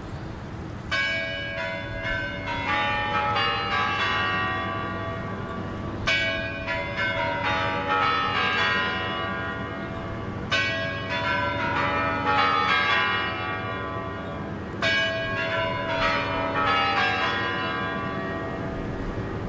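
Big clock bells ringing a chime melody in four descending cascades, one about every four and a half seconds: the Kremlin's Spasskaya Tower chimes sounding before the hour.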